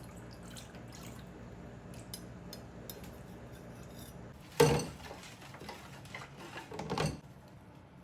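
Utensils and lab containers clinking against each other over a low steady hum. There are a few light ticks, then one sharp clink a little past halfway, then a short rattling run of knocks near the end.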